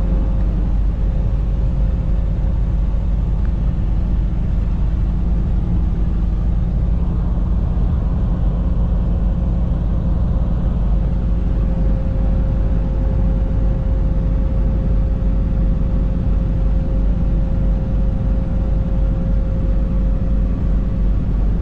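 Truck under way on the highway: a steady low engine drone and road noise heard from inside the cab, with a faint steady whine that grows clearer about halfway through.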